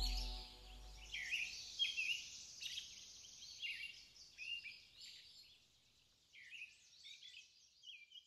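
Songbirds chirping and singing in short high phrases, thinning out and dying away over the last few seconds.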